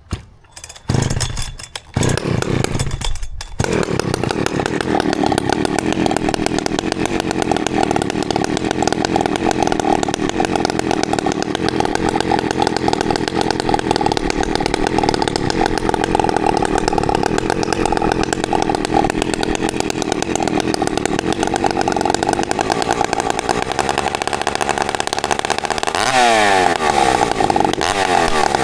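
Ported Husqvarna 365 two-stroke chainsaw with a homemade exhaust pipe, freshly rebuilt and warming up. A few short bursts of throttle give way to a long, steady run at high revs, and near the end the engine pitch swings up and down.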